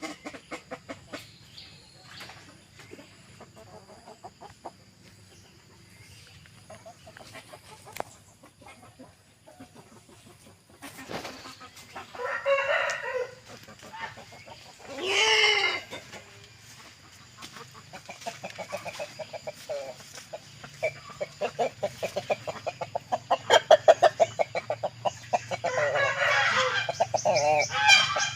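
Aseel chickens calling: two loud single calls around the middle, then a long run of rapid clucking that grows louder toward the end.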